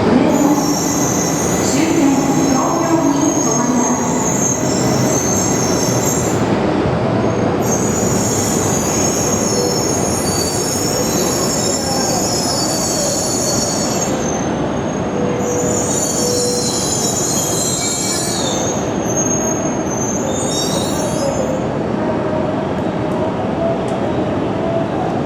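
A Tohoku Shinkansen train moving along the platform with a steady heavy rumble. A high-pitched squeal rises over it in four stretches of a few seconds each, fading out in the last few seconds.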